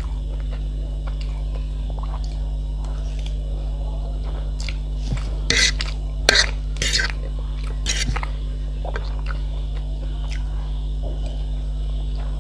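A person chewing food, with a few sharp clicks of cutlery against a dish in the middle, over a steady low hum.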